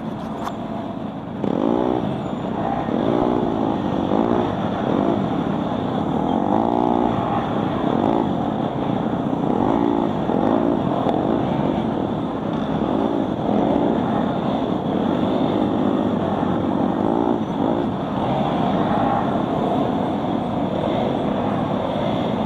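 Dense motorbike traffic: many small scooter and motorcycle engines passing close by, overlapping, with their pitch repeatedly rising and falling as they accelerate and ease off. The sound gets louder about a second and a half in.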